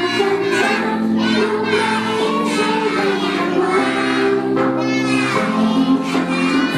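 A choir of young children singing a song together over a musical accompaniment, holding each note with no breaks.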